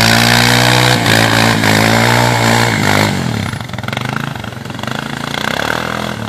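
A vehicle engine running at a steady high note, then winding down about three seconds in and carrying on at a lower, rougher run.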